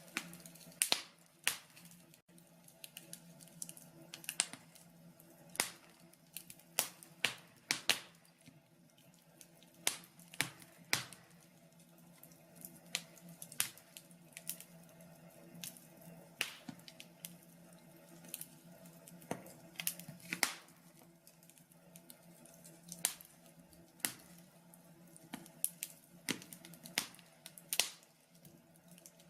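Wood logs burning in a log burner, crackling with irregular sharp pops about one or two a second over a faint steady hum.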